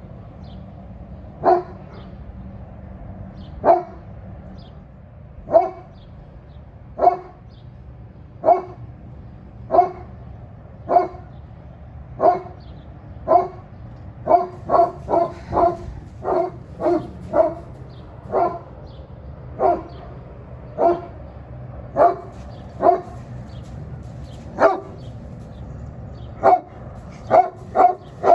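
Great Pyrenees barking at birds it is guarding against, with single deep barks repeated about every second or so. The barks come quicker in a run partway through and again near the end.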